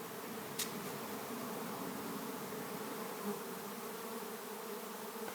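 Honey bee swarm in flight all around, a steady dense buzzing hum of thousands of bees as the swarm settles into a capture box.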